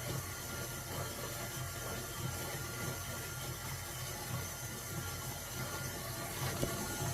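Electric stand mixer running steadily at low-medium speed, its motor humming as it beats cultured sour cream on the way to butter.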